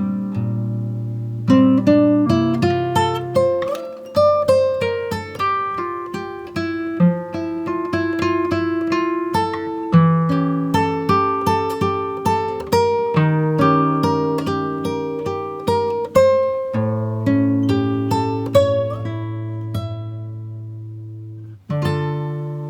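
Background music: acoustic guitar playing a melody of plucked notes over sustained bass notes, with a brief break near the end before it starts again.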